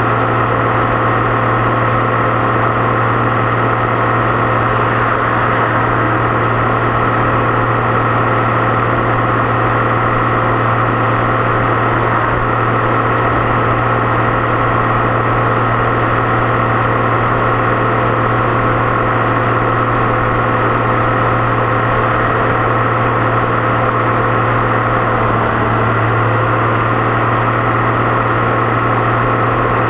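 Deutz-Fahr 6.61 tractor's turbocharged diesel engine running at a steady speed under way. The turbo and driveline give a constant whine over the engine note.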